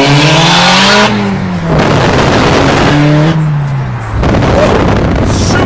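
Turbocharged Scion tC four-cylinder engine pulling hard under full throttle: revs climb, then fall away at a gear shift about a second in, climb briefly again, and fall near four seconds, with heavy wind and road noise throughout.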